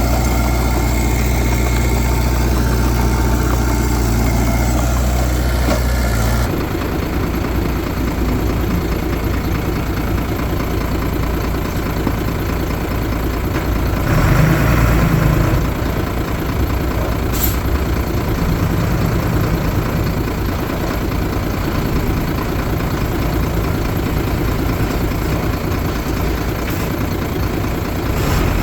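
Diesel engines of heavy earthmoving machinery running steadily. The engine sound changes abruptly about six seconds in, and there is a louder stretch around the middle.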